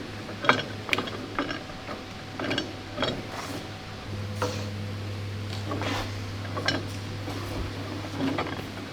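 Irregular clicks, knocks and clinks of hand tools and metal parts being worked during assembly of a heavy artillery piece. A steady low hum comes in about four seconds in.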